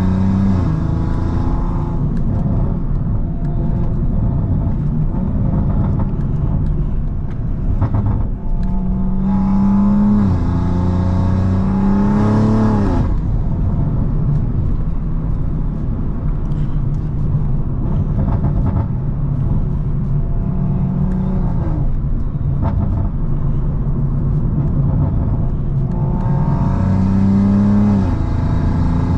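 BMW M340i's turbocharged B58 straight-six under hard acceleration twice, its note climbing with a rush of turbo and intake noise and then dropping off suddenly as the throttle lifts. Between the pulls the engine runs steadily at cruise.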